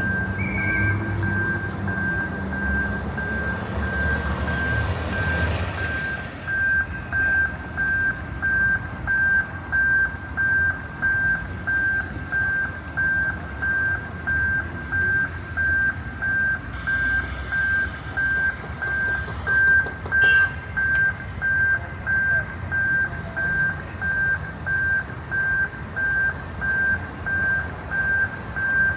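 Electronic warning beeper of a railway level crossing, one high tone beeping evenly about three times every two seconds. Road traffic rumbles under it for the first few seconds.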